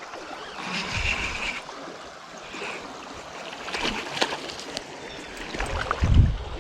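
Creek water running steadily, with a few short clicks about a second in and around four seconds, and a louder low thump near the end.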